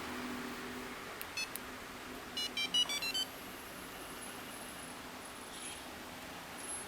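Handheld remote of a remote engine starter beeping. A few short button beeps come about a second in, then a quick run of about six electronic beeps at changing pitches, confirming the start command just before the engine cranks.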